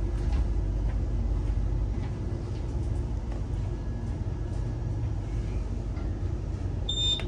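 Inside a Queensland Rail electric train carriage: the low rumble of the train easing to a stop at the platform, lighter from about two seconds in. Near the end comes a short high beep from the door-open push button being pressed.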